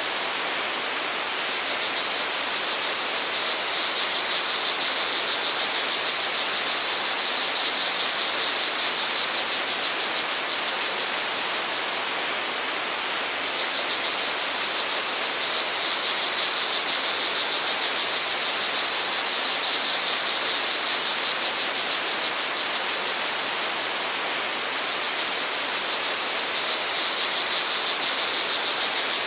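Steady rush of flowing water from a forest waterfall or stream, with crickets trilling high above it in long stretches that pause and resume about three times.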